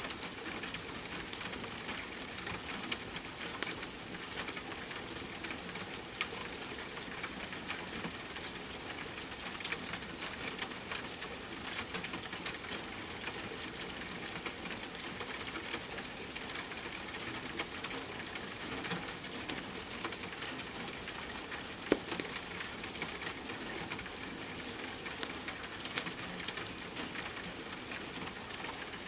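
Steady rain mixed with the crackle of a wood fire: an even hiss dotted with many small pops, and one sharper pop about two-thirds of the way through.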